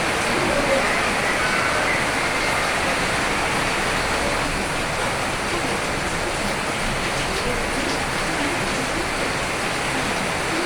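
Steady heavy rain falling, an even rushing hiss without breaks.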